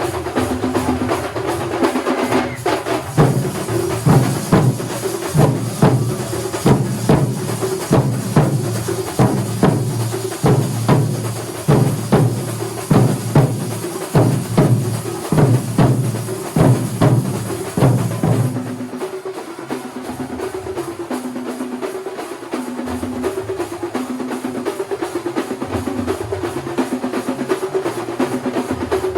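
Kerala thambolam drum ensemble playing: a fast run of heavy, loud drum strokes, which drops about two-thirds of the way through to a lighter, quieter repeating rhythm.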